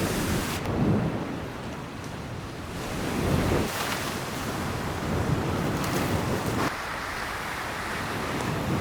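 Rain and wind outdoors, a steady hiss with low gusts buffeting the microphone about a second in and again around three and a half seconds in.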